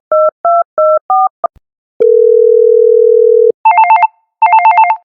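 Telephone sound effect: a quick run of touch-tone keypad dialing beeps, then one steady tone lasting about a second and a half, then an electronic phone ringing in short trilling bursts.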